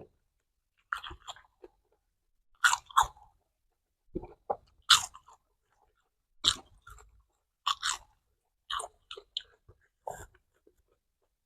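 Close-up crunching and chewing of roasted cicadas: sharp, crisp bites coming in separate bursts about every second.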